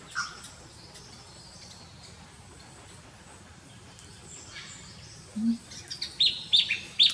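Garden birds calling over faint outdoor background noise: one short chirp right at the start, then from about four and a half seconds a run of short, sharp, high-pitched chirps, several in quick succession near the end.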